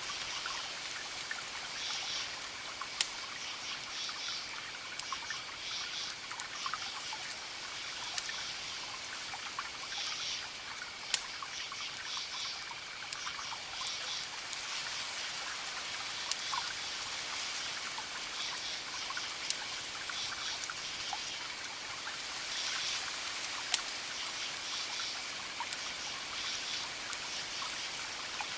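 Campfire crackling, with scattered sharp pops over a steady hiss, the loudest about 3, 11 and 24 seconds in. Behind it crickets keep up a constant thin trill, with groups of higher chirps coming and going.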